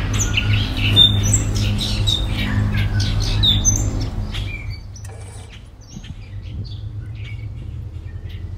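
Small birds chirping, many short high calls, over a steady low rumble that eases off about halfway through.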